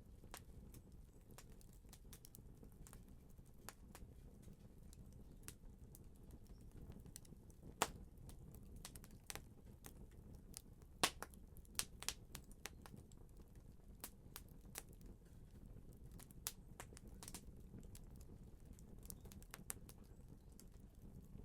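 Fire crackling: irregular sharp pops and snaps over a faint low rumble, with a few louder pops about eight seconds in and again around eleven to twelve seconds in.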